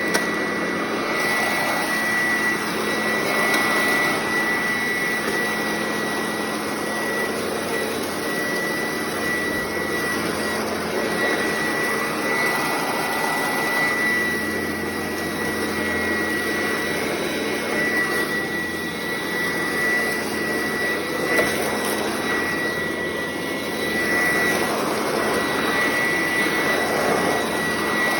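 Sanitaire upright vacuum cleaner running steadily, its motor giving a constant high whine over a broad rushing noise.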